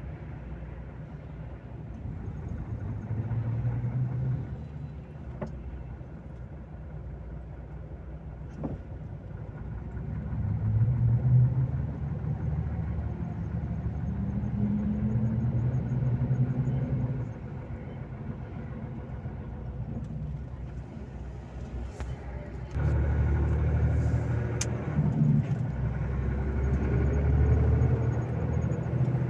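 Volvo FH 460 truck's diesel engine running on the move, its note rising and falling with speed and gear changes, and getting louder about three-quarters of the way through.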